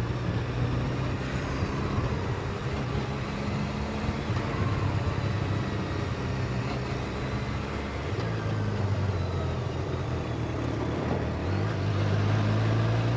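Motorcycle engine running steadily at low revs, getting a little louder near the end.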